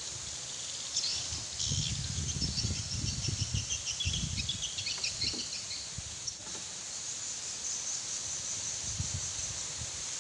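Insects chirping outdoors in a steady high chorus, with short chirps standing out in the middle, and gusts of wind buffeting the microphone.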